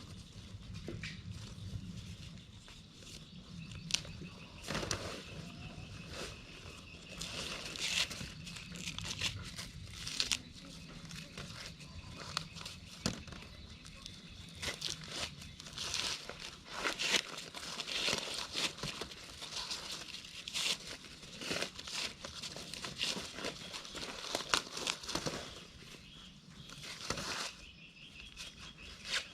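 Dry corn leaves and husks rustling and crackling as the plants are handled during hand harvesting, with many irregular crinkles and snaps.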